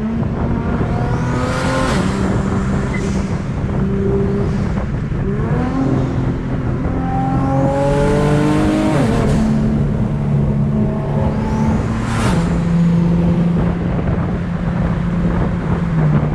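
Car engine running at speed, its pitch climbing steadily then dropping twice, with three vehicles rushing past at speed.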